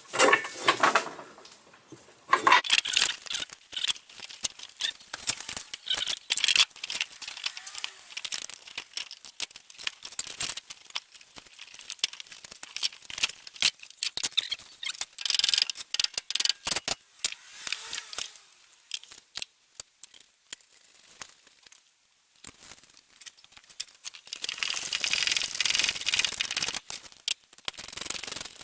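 Metal tools and fasteners clinking, knocking and rattling as nuts are worked onto the exhaust manifold studs of a Mini A-series engine, with a longer stretch of dense rasping near the end.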